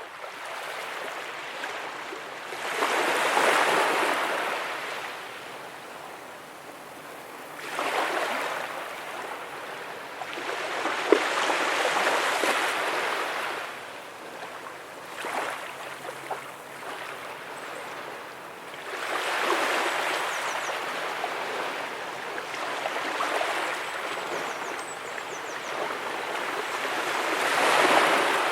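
Ocean waves breaking and washing up on a beach, the surf noise swelling and fading about every four seconds.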